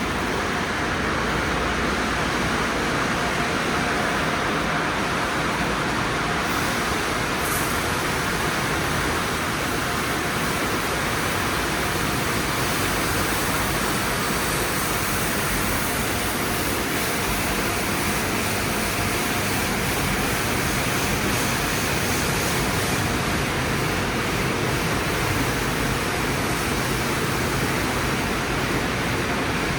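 Conveyor car wash tunnel equipment running: a steady rushing hiss of spray and machinery, with a faint steady whine underneath.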